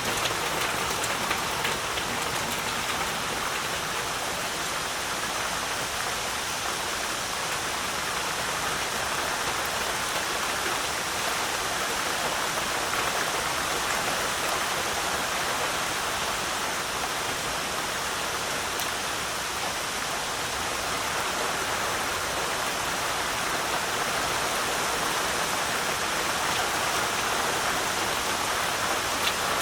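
Heavy rain falling steadily, a continuous even hiss of rain with scattered drop ticks.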